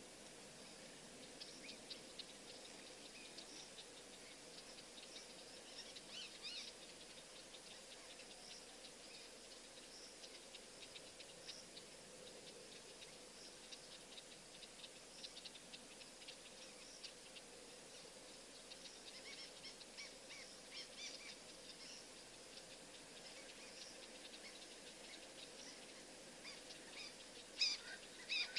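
Faint, scattered bird chirps over a low steady hiss, with a few louder chirps near the end.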